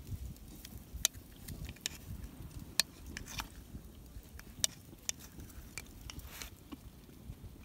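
Scattered sharp clicks and taps with some soft rustling, over a low rumble.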